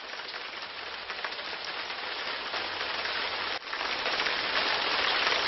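Water spraying onto plants during watering: a steady hiss that grows louder, briefly cutting out a little over halfway through.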